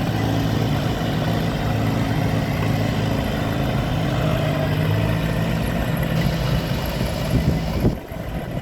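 A vehicle engine idling steadily, with a couple of sharp knocks near the end; the sound then drops suddenly.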